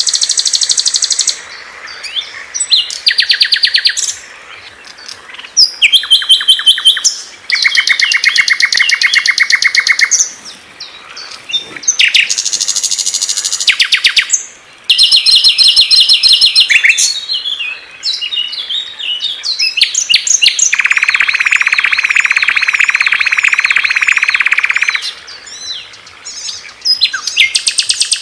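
Recorded songs of small songbirds in quick succession: loud, high, rapid trills and strings of repeated chirps, each phrase lasting a second or a few before a different song takes over. Past the middle, a lower, even trill is held for about four seconds.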